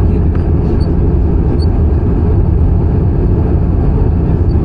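Steady cabin noise inside an Airbus A320-214 in flight: engine and airflow noise, strongest low down and unchanging.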